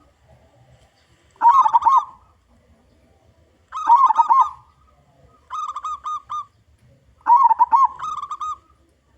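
Zebra dove (local perkutut) cooing: four cooing phrases of about a second each, spaced roughly two seconds apart, the third one quieter.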